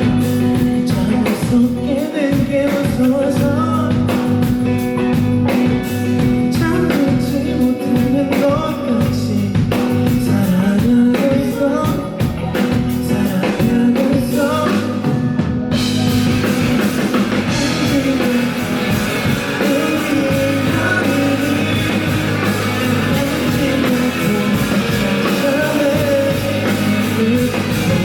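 Live rock band playing with a singer; a little over halfway through the band comes in fuller and brighter, with a wash of cymbals.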